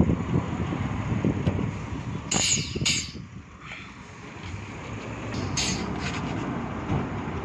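A heavy vehicle's engine rumbling, with two short bursts of air hiss, the first about two and a half seconds in and the second near six seconds.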